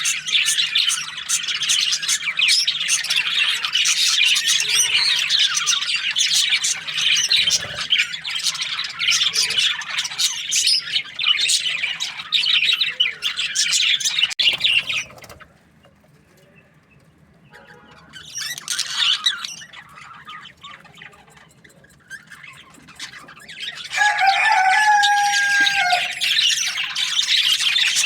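A flock of budgerigars chattering and chirping in a dense, rapid stream. About halfway through it drops almost quiet with only scattered chirps, then builds up loud again near the end, with one longer steady call among the chirps.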